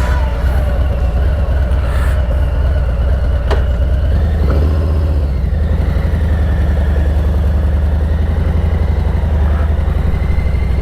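Harley-Davidson V-twin motorcycle engine running steadily while riding, a continuous low rumble.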